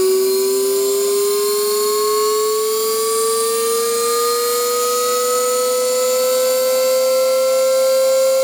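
Stripped VHS erasing head spun by a treadmill motor, giving a steady whine that slowly rises in pitch as it speeds up.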